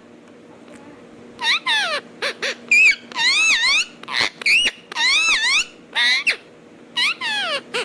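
Alexandrine parakeet giving a run of about eight short, loud, high calls, each swooping up and down in pitch, with brief pauses between them.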